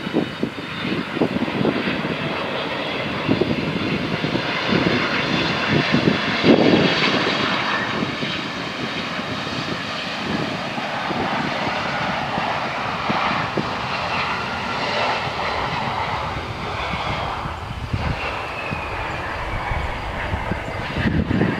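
Airliner engines running loud and steady as the aircraft moves at the airport, a rushing roar with a high whine on top. Near the end the whine slides down in pitch as the aircraft passes.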